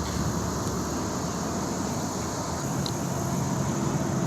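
Steady outdoor background noise with a low, even rumble and no distinct event.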